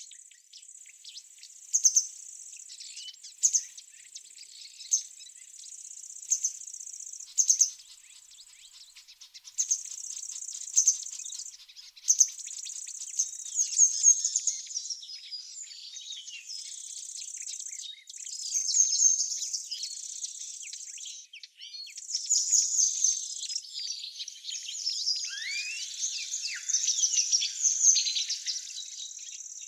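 Small birds chirping and calling over a steady, high-pitched insect buzz that stops and starts every few seconds. A few lower, sliding bird notes come near the end.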